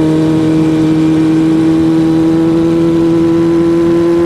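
Suzuki GSX-R1000 inline-four engine running at high, steady revs while under way, its pitch climbing slowly and evenly as the bike gathers speed.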